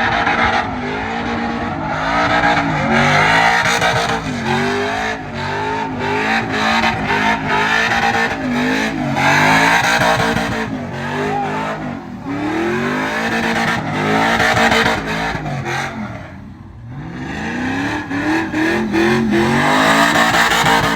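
LS-swapped pickup's V8 revved hard again and again as the truck is swung sideways in circles, the engine note rising and falling over and over with a hiss of spinning tires. The revs drop off briefly about three-quarters of the way through, then climb again.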